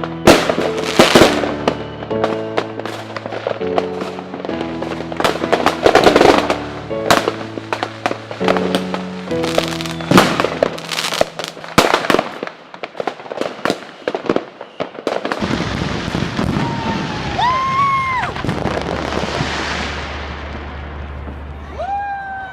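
Fireworks going off in a fast run of loud bangs and crackles over music with changing chords. After about halfway the music stops and the bangs thin out into a more even crackle. Near the end a few short whistling tones rise and fall.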